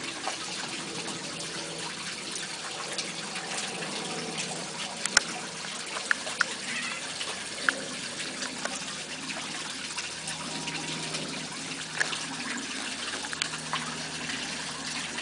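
Water trickling steadily, with scattered sharp drips and taps now and then.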